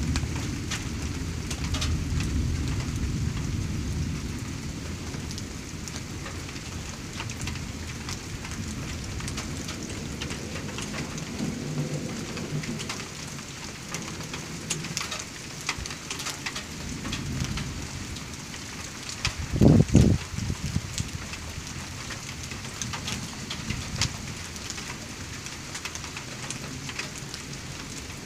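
Steady rain with scattered raindrops ticking on a surface during a thunderstorm. Low thunder rumbles and fades away over the first few seconds. A short, loud low thump comes about two-thirds of the way through.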